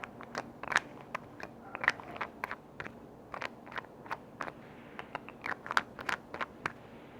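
Quick, irregular tapping and clicking on lids, about three or four sharp clicks a second.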